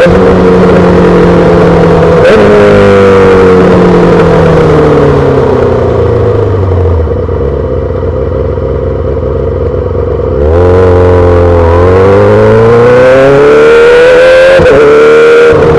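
2008 Yamaha R6 inline-four through a full SC-Project exhaust, ridden in town. The revs fall away as the bike slows, it runs low and quieter for a few seconds, then the revs climb again about ten seconds in. A brief break near the end is a gear change, and the engine then holds steady.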